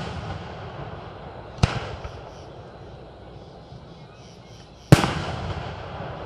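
Aerial fireworks exploding: two sharp bangs, one about a second and a half in and a louder one near the end, each followed by a long echoing rumble.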